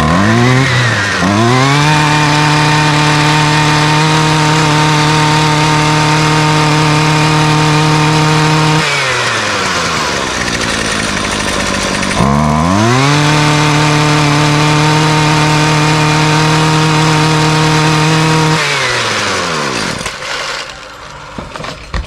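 Husqvarna string trimmer's small two-stroke engine running at full throttle. It revs up and holds a steady high pitch, drops back to low speed about 9 seconds in, revs up again about 12 seconds in, then drops and dies away near the end.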